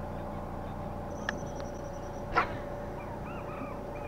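A few short animal calls, most likely birds, over a steady low hum. A sharp knock comes about two and a half seconds in.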